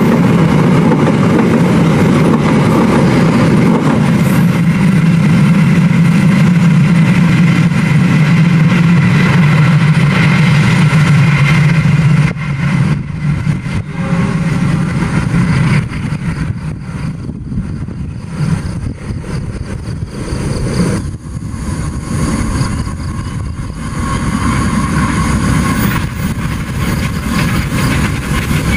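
Passenger train coaches rolling past close by, a loud steady rumble. About twelve seconds in it drops to a quieter, more distant train sound, and near the end a diesel locomotive's engine grows louder as it approaches.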